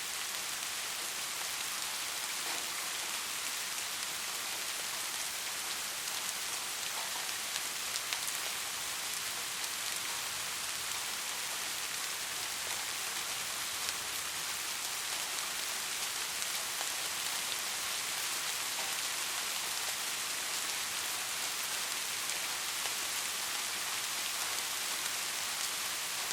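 Steady rain falling, an even hiss of many drops with a few single drops ticking out now and then.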